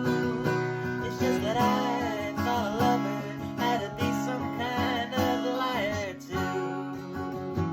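Strummed acoustic guitar playing a folk song. A voice sings long, wavering notes over it from about a second in until about six seconds.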